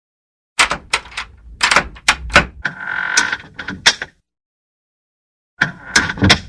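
A door being moved back and forth: a rapid run of sharp clicks and knocks with a short squeal from the hinges about three seconds in, then after a pause another burst of clicks and a brief squeak near the end.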